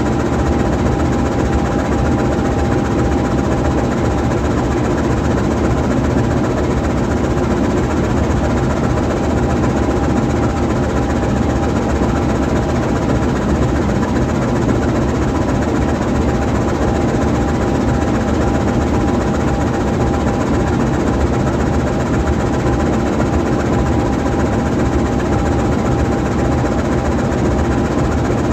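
GE U20C diesel-electric locomotive's V12 diesel engine idling steadily while the locomotive stands still, with a thin steady high tone running over the engine hum.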